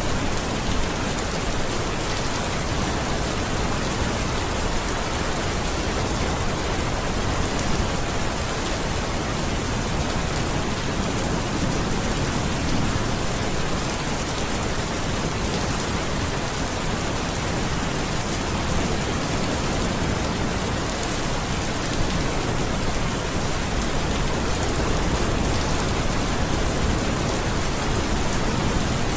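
Steady heavy rain falling and pattering on surfaces, a dense even hiss with no let-up.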